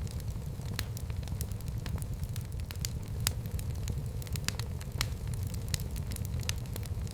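Wood fire burning in a fireplace, crackling with irregular sharp pops several times a second over a low steady rumble.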